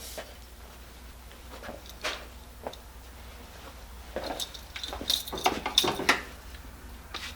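Small metal stove being handled: a couple of light clicks, then a burst of metallic clicking and clatter about four to six seconds in.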